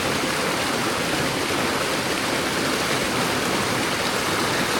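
Fast-running stream rushing steadily.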